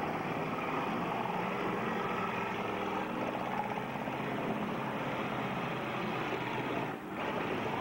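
Engines of several demolition derby cars running and revving together. The sound dips briefly about seven seconds in.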